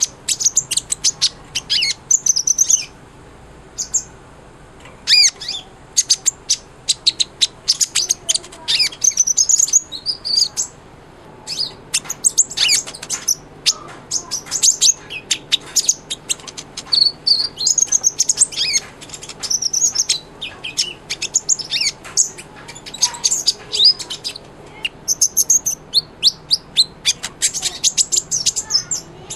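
A sunbird (the 'kolibri ninja' of Indonesian bird-keeping) singing prolifically: a fast, high twittering song of short chirps and trills packed closely together, with a few brief pauses.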